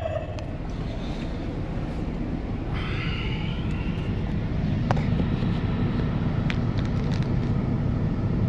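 Semi-truck's diesel engine idling, a steady low rumble heard from inside the cab, a little louder and with a steady hum added about five seconds in, with a few light clicks.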